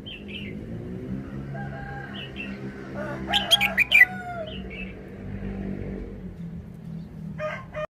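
Red-whiskered bulbul singing short whistled phrases, with the loudest run of notes about three seconds in and a brief phrase near the end. A steady low hum runs underneath.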